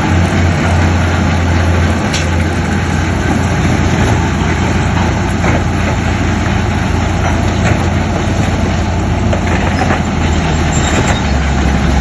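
Heavy diesel earthmoving machinery running steadily with a deep engine hum, and a few scattered knocks and clanks.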